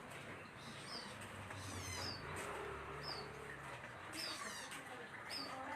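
Green leafbird (cucak hijau) chirping softly: a short, high, falling note repeated about once a second.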